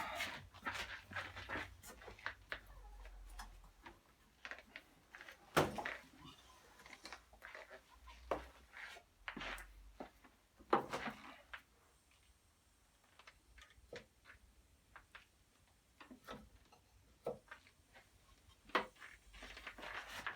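Irregular clicks and knocks of hand tools and metal parts being handled, with a few sharper knocks about five and a half seconds in, about eleven seconds in and near the end.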